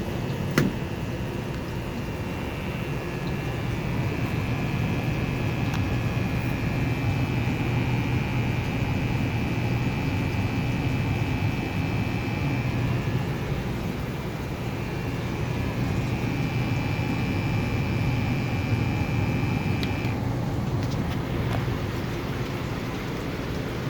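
Two gas furnaces joined as a tandem pair, firing for a combustion test: a steady low hum and air rush. A thin high-pitched whine cuts off suddenly about 20 seconds in.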